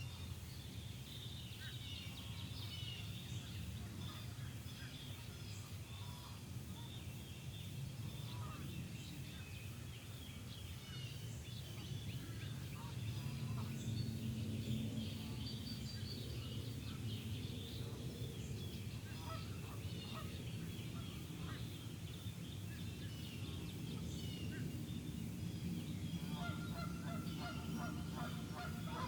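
Outdoor dawn chorus at a lake: many small birds chirping throughout over a steady low rumble, with geese honking in a quick repeated series near the end.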